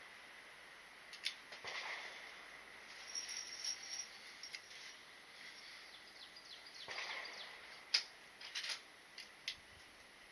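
A few sharp light clicks and brief rustles, scattered and quiet, the loudest click about eight seconds in.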